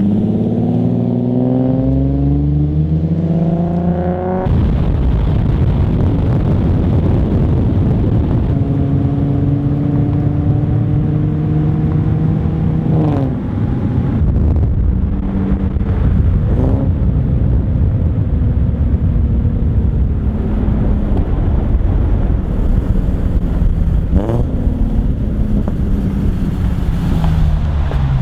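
Nissan 370Z's 3.7-litre V6 running through a single-exit race exhaust with test pipes, driven under acceleration. The engine note climbs for the first four seconds, drops at a gear change, and rises and falls through several more gear changes, with steadier cruising stretches between.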